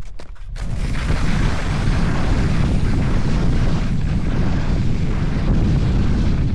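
Wind buffeting the camera microphone during a ski run, a loud steady low rumble with a brief dip in the first half second.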